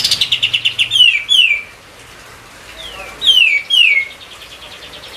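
Kapas tembak songbird singing: a fast trill of short chirps, then several loud clear whistled notes that slide steeply down in pitch, in twos and threes, and another trill ending in one more falling note.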